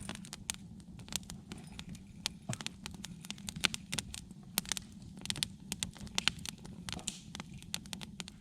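Campfire of split wood crackling, with irregular sharp pops several times a second over a steady low rush of burning.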